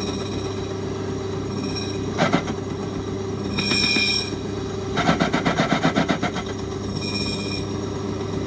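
Metal being cut into the bit of a safe key blank to deepen a lever step. A steady hum runs underneath, high squeals come twice, and there is a burst of rapid scraping about five seconds in.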